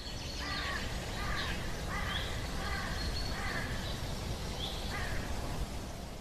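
Outdoor ambience: a bird calls about six times in short repeated calls, with a few higher chirps, over steady background noise.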